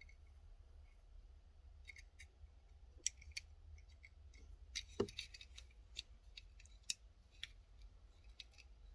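Faint, scattered small clicks of a die-cast model car being handled, its opening hood being worked shut; a few sharper clicks about three, five and seven seconds in. The hood is no longer closing tightly.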